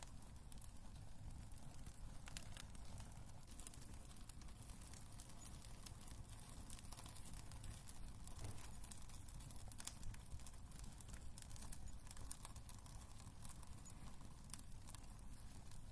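Wood fire crackling in a fireplace, quiet: scattered sharp pops and snaps over a low steady rumble.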